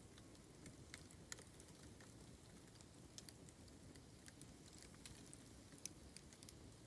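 Faint crackling of a bamboo fire: scattered small sharp pops and ticks, about one or two a second.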